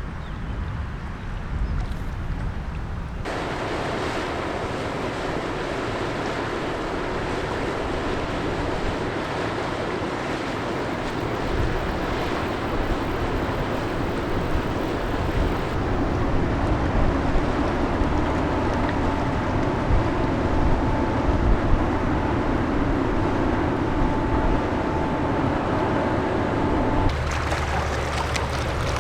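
A ship passing: steady engine drone with the wash of water, and wind on the microphone. The sound changes abruptly a few times, as at cuts between shots, and a faint steady tone runs through the second half.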